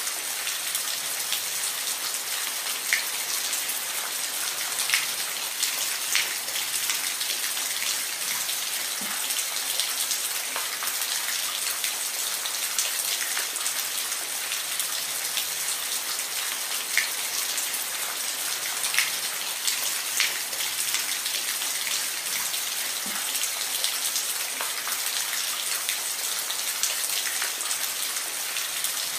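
Steady rain with the sharp ticks of individual drops striking a surface close by.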